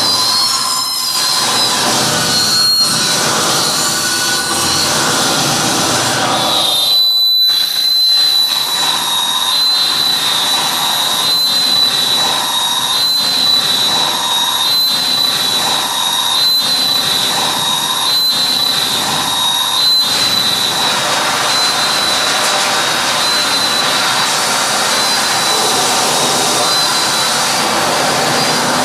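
Live harsh noise music: a loud, dense wall of electronic noise with a high whistling tone that steps up and down in a repeating pattern. It cuts out for a moment about seven seconds in, and the whistle fades out in the last third.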